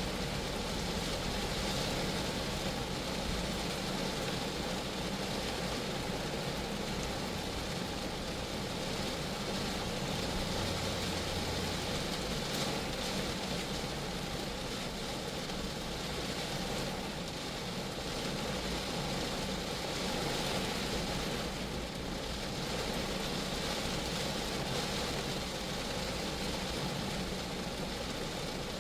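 Rain falling steadily on a Geo Metro, an even hiss of drops on the car's body.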